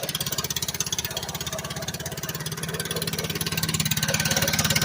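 Mini bike's small single-cylinder engine idling with a rapid, even chugging, growing louder near the end.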